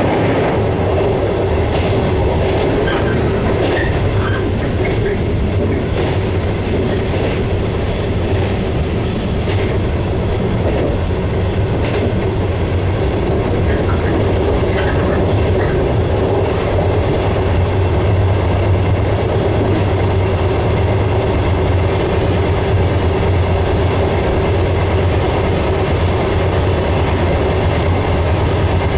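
JR West 115 series electric train running along the line, heard from inside the front car: a steady rumble and hum from the motors and wheels, with the wheels clicking over rail joints now and then.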